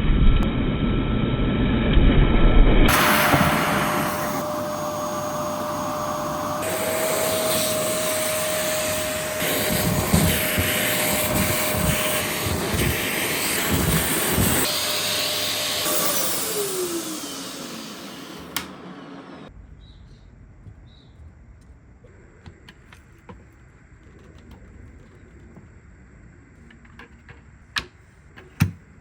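Dyson DC07 Allergy upright vacuum cleaner running, its motor giving a steady whine over the rush of suction. About sixteen seconds in it is switched off and the motor winds down with a falling whine. A few light clicks follow near the end.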